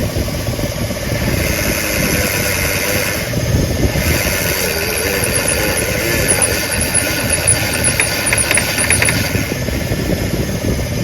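Pickup truck engine running while the power-steering pump whines with a wavering pitch, with high chirping squeaks about halfway through. It sounds like a slipping belt but comes from power-steering fluid that is low in the reservoir.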